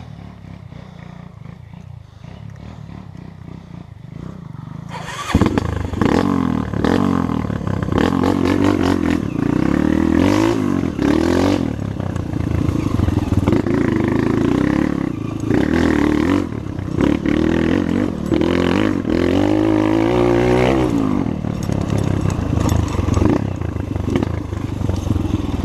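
Trail motorcycle engine: a low, steady running note for about five seconds, then the engine picks up and runs loud, its pitch rising and falling again and again as the bike is ridden and revved.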